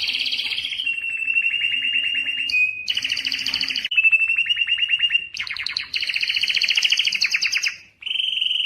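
Domestic canary singing, a continuous song of rapid trills and rolls, each phrase held for a second or so before switching to the next, with a brief pause near the end.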